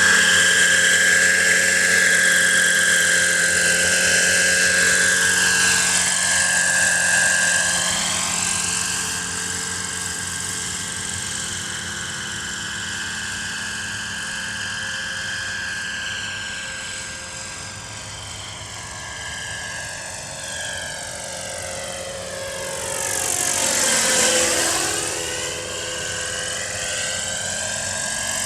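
Kalt Baron Alpha RC helicopter's four-stroke model engine and rotor running steadily in flight, the tone sweeping as its distance changes; loud at first, fading slightly through the middle, then swelling louder again near the end.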